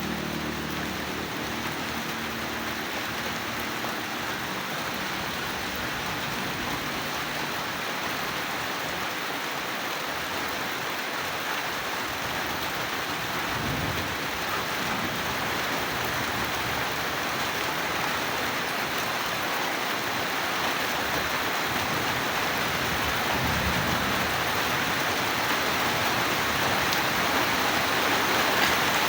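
Steady rain falling on surfaces, its hiss growing slightly louder toward the end. Two brief low rumbles of distant thunder come about halfway through and again near the 24-second mark, and a low droning hum fades out in the first second or so.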